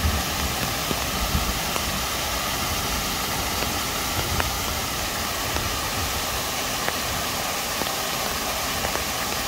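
Steady rush of a mountain waterfall, an even hiss across high and low pitches, with a few low bumps on the microphone in the first second or two.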